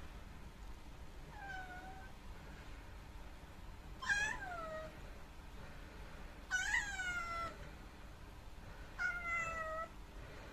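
Black kitten meowing four times, each meow sliding down in pitch, the first one faint: grumbling, complaining calls.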